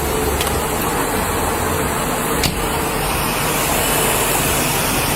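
Steady hiss with a low vehicle engine hum underneath, and one sharp click about two and a half seconds in.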